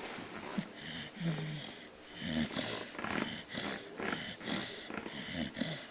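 Staffordshire bull terrier x mastiff cross dog snoring: a run of noisy breaths in and out, about one a second.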